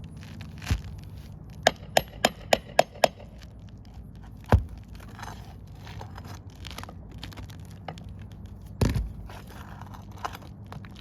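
A tool worked under brittle roof shingles to lift the nails: a quick run of six sharp taps about a second in, two heavier knocks later, and crackling and scraping of the shingle between them.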